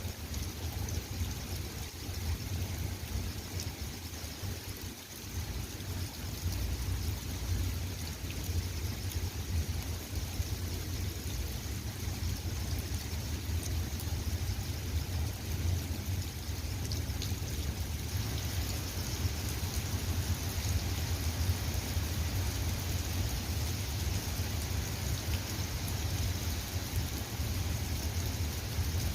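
Steady rain falling, individual drops ticking over an even hiss, with a low rumble underneath. The rain grows a little heavier about two-thirds of the way through.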